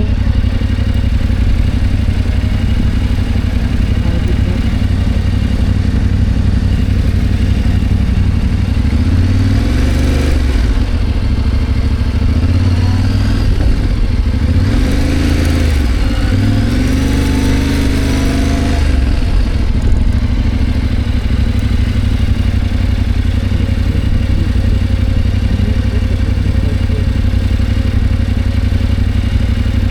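Motorcycle engine running while riding. From about nine seconds in until about nineteen seconds, the engine note rises and falls several times, then settles back to a steady note.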